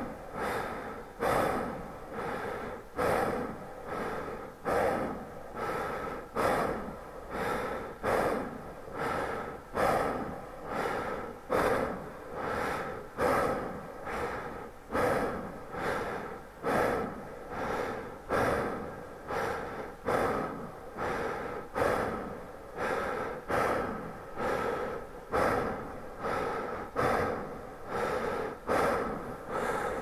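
Human breathing with added reverb: steady, even breaths, about one every second and a half to two seconds, each starting sharply and trailing off in a reverberant tail.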